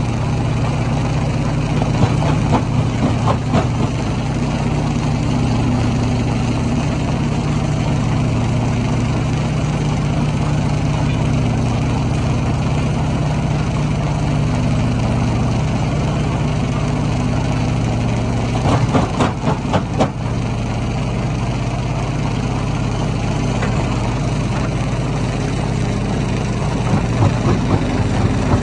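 Hammer stone crusher running with a steady heavy engine drone. Three times it is broken by short bursts of rapid knocks of stone on metal and rock: about two seconds in, around two-thirds of the way through, and near the end.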